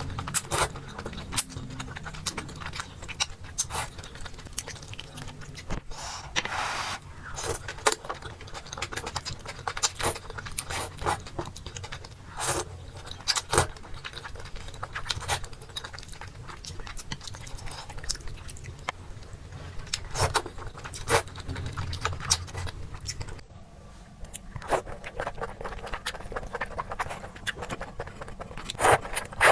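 Close-miked eating sounds: chewing and biting, with many irregular sharp crunches and clicks over a steady low hum.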